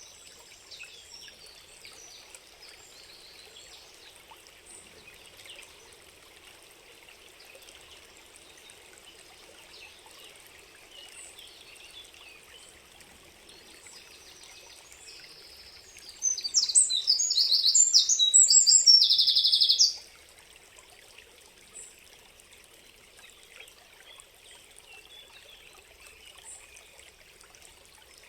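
Steady trickle of a stream with small birds chirping faintly. About sixteen seconds in, a bird sings loudly close by for about four seconds in a rapid run of high, varied notes, then drops back to the stream.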